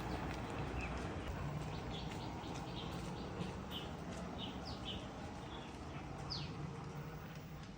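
Small birds chirping outdoors: short, repeated high chirps, some sweeping quickly downward, over a steady background hiss.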